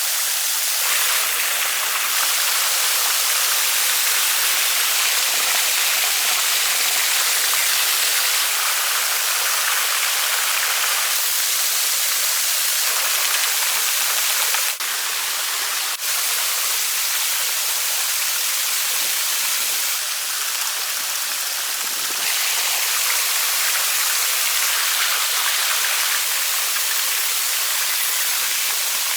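Steady rushing of a waterfall, a loud even hiss of falling water, changing abruptly in level and tone several times.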